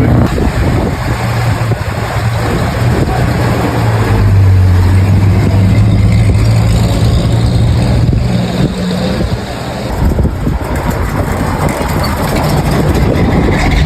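Vehicle engine running steadily with a low engine note that grows louder a few seconds in, over a rough mechanical noise.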